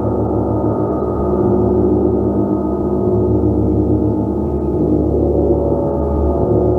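Gong played continuously: a dense, sustained wash of many ringing tones with a throbbing low end, with no single strike standing out.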